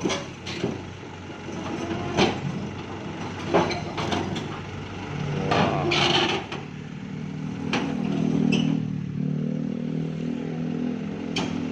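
Excavator's diesel engine running, with scattered metal clanks and knocks; from about halfway through the engine note steps up and holds steady under load.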